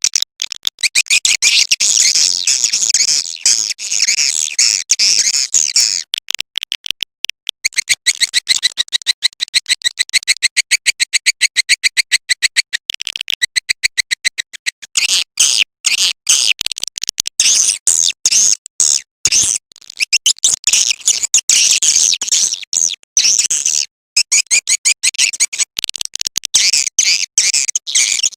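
Recorded swiftlet calling sound: dense, rapid, high-pitched twittering chirps in bouts with brief gaps, including a stretch of very fast, evenly spaced chirps in the middle.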